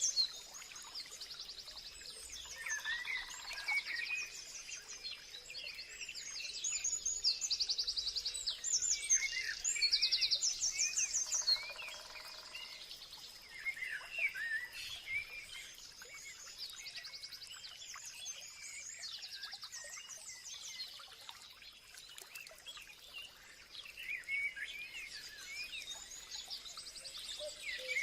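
Many songbirds calling and singing at once: overlapping high chirps and fast rattling trills, with a faint steady high-pitched tone running underneath.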